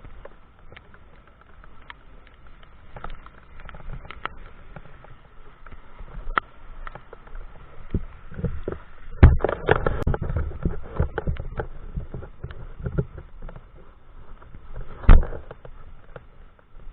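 Mountain bike rattling and jolting over rough ground, with many irregular knocks and clicks over a low rumble. Two hard thumps stand out, about nine seconds in and again near fifteen seconds.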